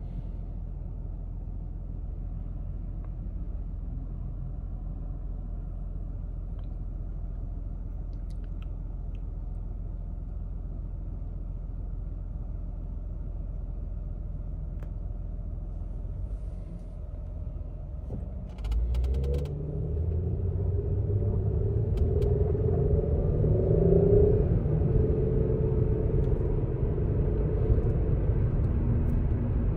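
Car engine idling steadily, heard from inside the cabin. About two-thirds of the way through it revs up and gets louder as the car pulls away and accelerates, with road noise building.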